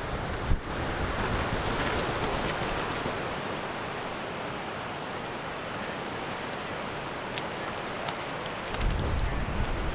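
Strong wind rushing past and buffeting the microphone, with low rumbling gusts near the start and again near the end. A single sharp knock about half a second in.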